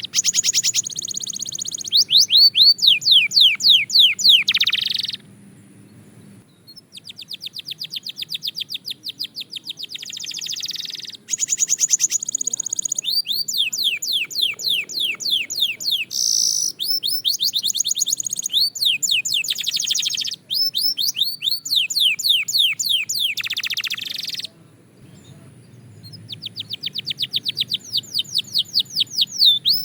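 Belgian canary singing in long phrases of fast trills, each a rapid run of repeated sweeping notes, with a short pause about five seconds in and another near the end.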